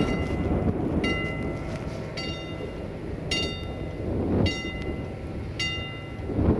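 Approaching diesel-hauled passenger train, a low rumble from the locomotive and wheels. Over it, a short high tone recurs about once a second.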